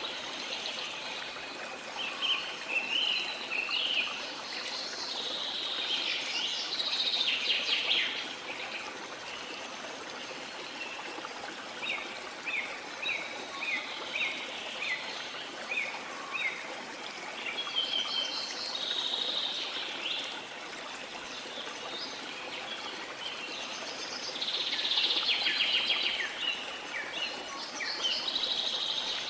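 Steady rush of a waterfall or stream under birds singing and calling, with bursts of song every few seconds and a run of quick repeated chirps in the middle.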